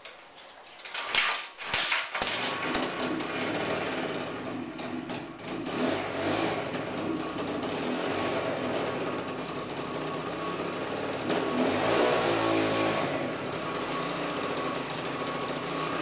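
200cc Ricardo dirt bike kick-started from cold: a few knocks of the kickstarter, then the engine catches about two seconds in and keeps running, revving up briefly about twelve seconds in.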